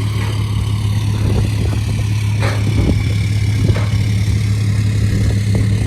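An engine running steadily at an even speed, with a few short knocks about two and a half to four seconds in.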